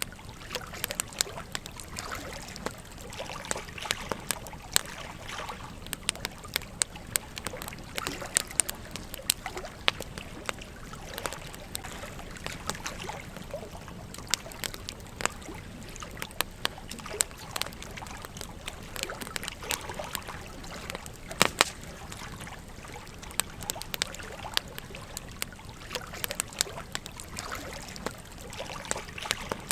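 Campfire crackling with frequent sharp, irregular pops, one louder snap about two-thirds of the way in, over a gently running stream's steady trickle.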